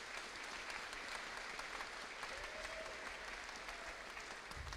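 Audience applauding steadily as a name is called: many hands clapping in a large hall.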